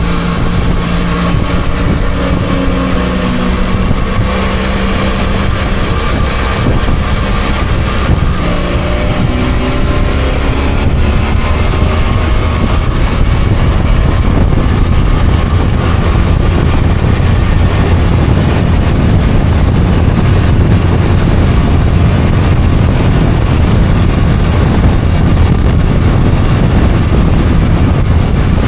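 BMW F800GS parallel-twin motorcycle engine running under way, its pitch climbing several times in the first half as the bike accelerates. From about halfway, a louder steady rush of wind and road noise covers the engine at cruising speed.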